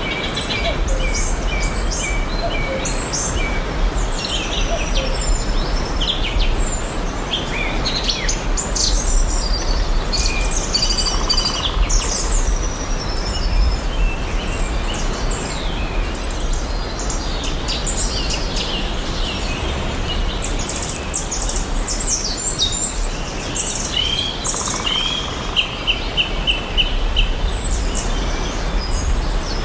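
Several songbirds singing and calling, with many short chirps and trills and a quick run of repeated notes near the end, over a steady hiss and a low rumble.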